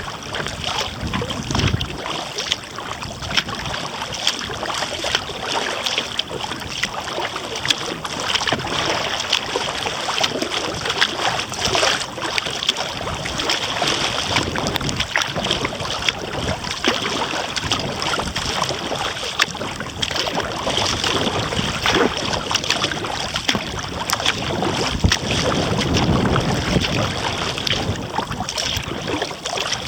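Water splashing and lapping around a kayak as it is paddled, with many small sharp splashes throughout. Gusts of wind rumble on the microphone about a second and a half in and again near the end.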